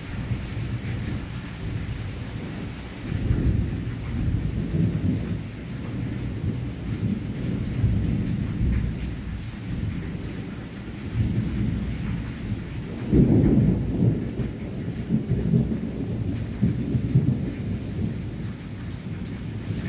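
Steady rain falling on leafy plants, with irregular low rumbling surges every few seconds, the strongest about two-thirds of the way through.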